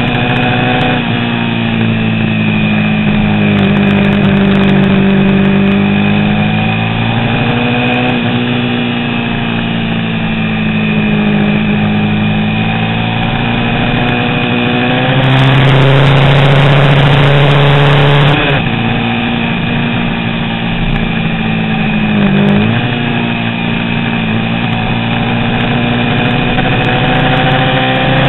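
A 350 cc vintage racing motorcycle engine running hard throughout, its pitch climbing and falling as it is ridden through the gears. It gets louder for a few seconds about two-thirds through, then cuts back suddenly. A quick drop and recovery in pitch comes a few seconds later.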